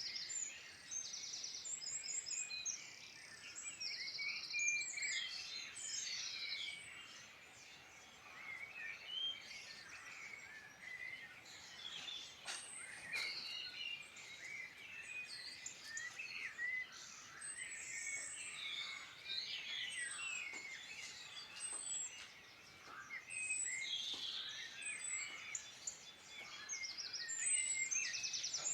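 Several songbirds singing at once, with overlapping chirps, whistled phrases and a few rapid trills running without a break over a faint steady hiss.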